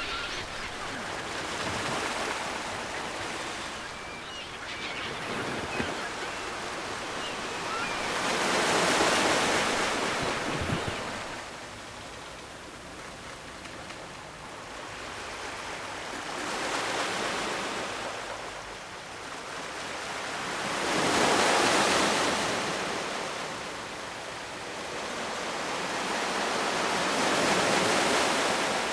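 Ocean waves breaking and washing up on a shore: a steady rush of surf that swells and falls back as each wave comes in, with about four larger waves several seconds apart.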